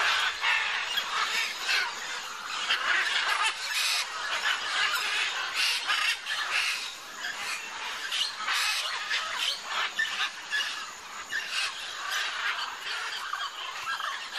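A large flock of macaws squawking, many harsh, overlapping calls without a break.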